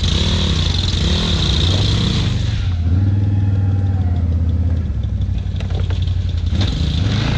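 ATV (quad bike) engine revving up and down under the throttle, with a hiss over the first couple of seconds, then holding steady revs for about two seconds before revving again near the end.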